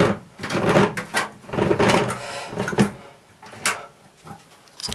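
Ventline Ventadome RV roof vent's manual crank being turned to lower the lid, the mechanism scraping in a series of uneven strokes. The strokes come about two a second, then fade after about three seconds.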